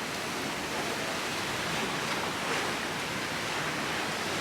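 Steady, even rushing of wind and sea.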